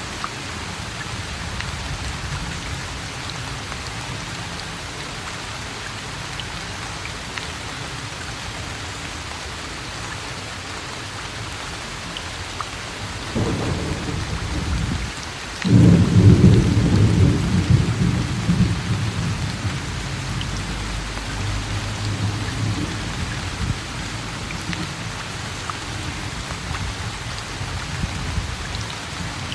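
Steady rain falling. About 13 seconds in, thunder starts rumbling and breaks off briefly. A louder peal follows and rolls away over several seconds while the rain goes on.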